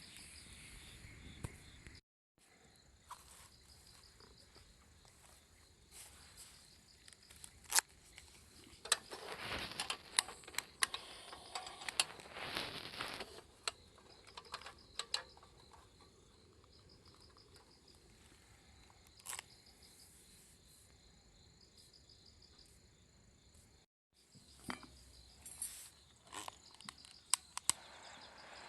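Crickets and other insects chirping steadily in long grass, with scattered clicks and a few seconds of handling noise near the middle. The sound cuts out completely twice.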